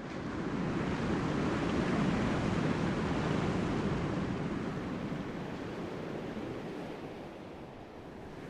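Sea waves and surf washing, swelling over the first couple of seconds and then slowly easing off.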